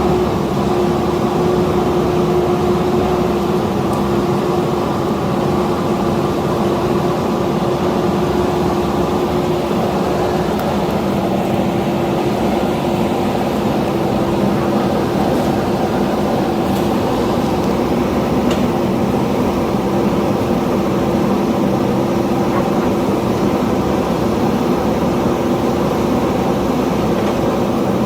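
JCB backhoe loader's diesel engine running at a steady speed, a constant hum with no revving.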